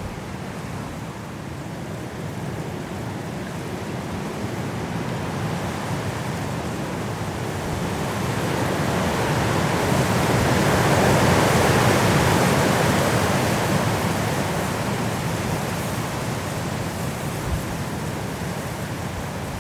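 Strong wind blowing through trees in a snowstorm, a steady rush that builds to a loud gust near the middle and eases off again.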